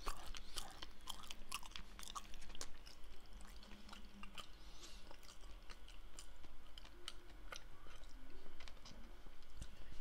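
A person chewing a strawberry muffin close to the microphone: many small, irregular mouth clicks.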